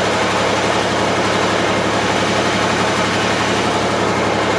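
Welding arc crackling steadily while a weld pass is laid on steel tool bar, over a steady low engine hum.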